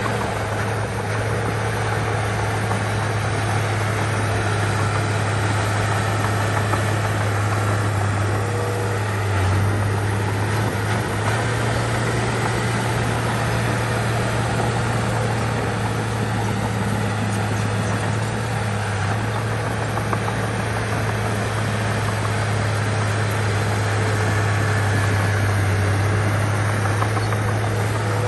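Heavy diesel engine of a bulldozer running at a steady speed, a constant low drone with engine noise over it.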